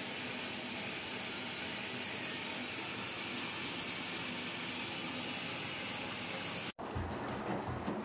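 Washing machine taking in water at the start of its drum-cleaning cycle: a steady hiss of water rushing in through the inlet. It cuts off abruptly near the end, leaving a quieter background.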